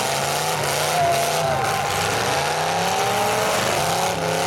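Several demolition derby cars' engines running and revving together, their pitch rising and falling as the drivers work the throttle.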